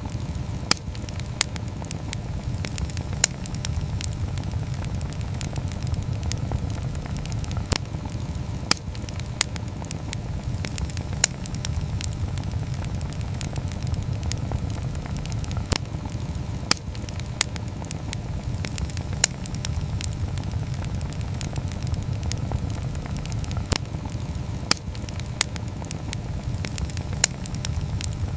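Wood campfire burning, with irregular sharp crackles and pops over a steady low rush of flame.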